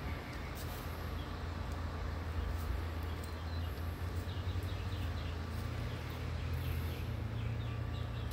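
Small birds chirping in quick repeated notes, from about three seconds in, over a steady low rumble.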